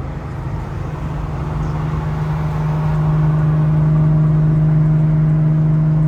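Car engine and exhaust drone while driving, one steady low tone that grows louder over the first few seconds and then holds, as the car picks up speed.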